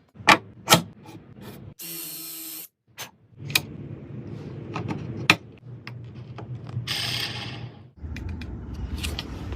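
Woodworking hand-tool sounds in short edited snippets: scraping or rasping strokes on wood, broken by several sharp clicks and taps, with abrupt cuts between segments.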